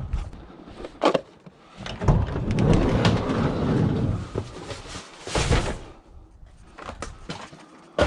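Scrap being handled and loaded into a vehicle: a sharp knock, a long rumbling scrape lasting about two and a half seconds, then a short loud bang.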